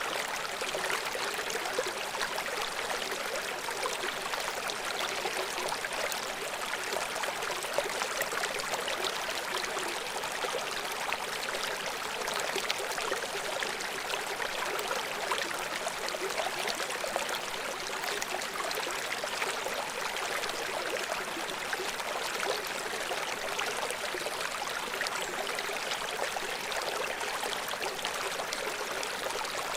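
River water flowing: a steady, even rush with little deep rumble.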